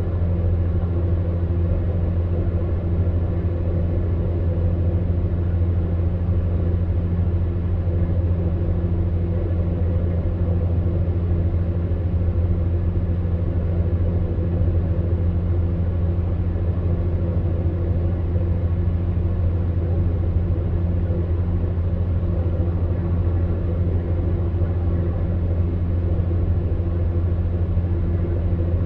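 Electric fan heater running: a steady low hum with an even rush of blown air.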